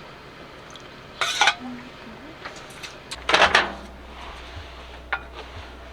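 Dishes and cutlery clattering in three short bursts, with a low steady hum coming on about halfway through.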